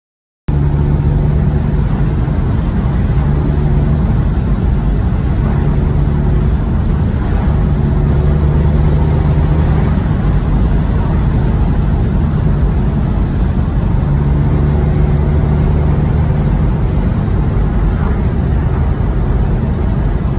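2008 Porsche 911 Carrera S's 3.8-litre flat-six engine pulling the car along a road, heard from inside the cabin together with road noise. Its low note swells for a few seconds at a time and then sinks back, several times.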